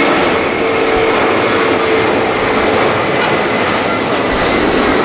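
Jet airliner engines running: a loud, steady rushing noise with a thin high whine held over it.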